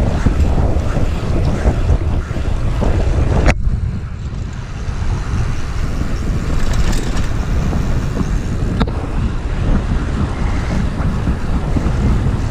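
Wind buffeting the microphone of a camera riding along on a moving bicycle: a steady low rumble, dipping briefly after a sharp click about three and a half seconds in, with a second click near nine seconds.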